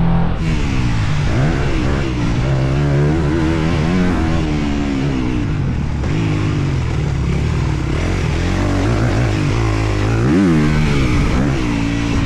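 Four-stroke single-cylinder motocross bike engine being ridden hard, its pitch rising and falling again and again with throttle and gear changes, with a sharp rev about ten seconds in.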